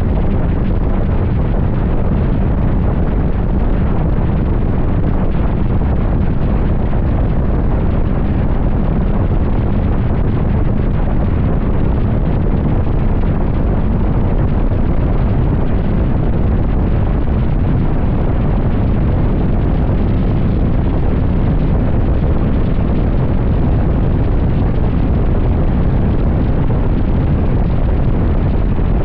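Steady, loud wind buffeting a motorcycle rider's microphone at highway speed, with road and engine noise beneath it.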